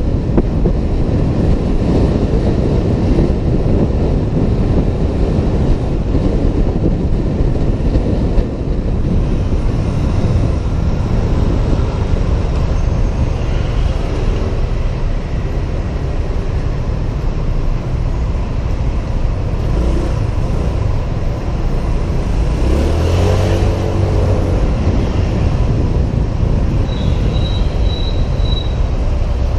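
Riding a Honda PCX 125 scooter, heard from a helmet camera: steady wind buffeting and road rumble with the scooter's engine and the surrounding traffic. About 23 seconds in, an engine climbs in pitch as it speeds up.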